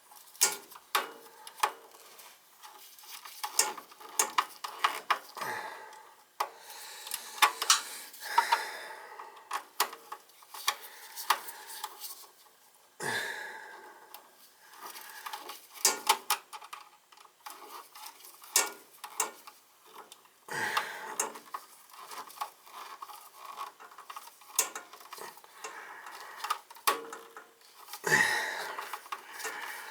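Close-up hand work on low-voltage control wiring: irregular light clicks, taps and scraping of tools and thermostat wire being handled, with a few fuller rustles along the way.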